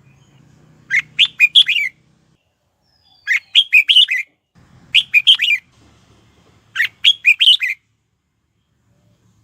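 Red-whiskered bulbul singing: four short, loud warbling phrases, each about a second long and about two seconds apart.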